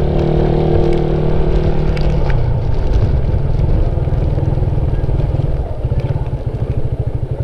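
Suzuki Raider 150's single-cylinder four-stroke engine running steadily, then its revs drop about two seconds in and it slows to a low, pulsing throb as the motorcycle eases off.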